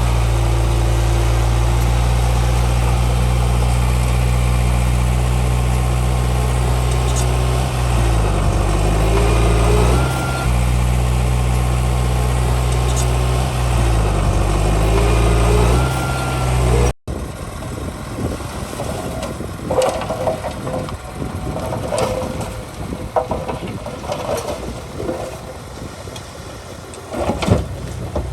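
Heavy diesel earthmoving machinery running close by, a steady engine note whose pitch dips and recovers twice. About two-thirds of the way through the sound cuts to a quieter, rougher engine noise with scattered metallic clanks and rattles.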